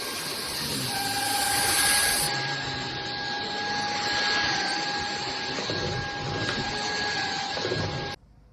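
Cordless stick vacuum cleaner running steadily, its motor giving an even rush of air with a steady high whine, then cutting off suddenly near the end.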